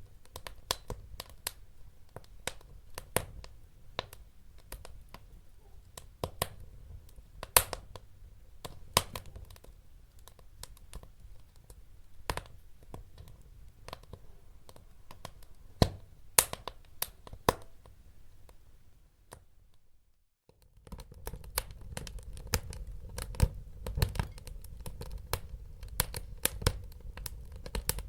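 Wood fire crackling, with frequent sharp pops and snaps over a low rumble of burning. The sound cuts out for about a second near two-thirds of the way through, then the crackling returns busier.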